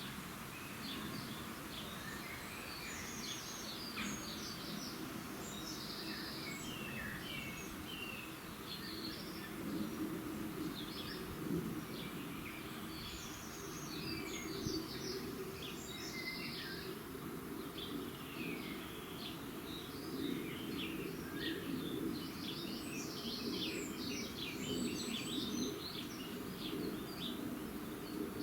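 Dawn chorus of several small birds: many overlapping short chirps and trills, over a steady low rushing background noise.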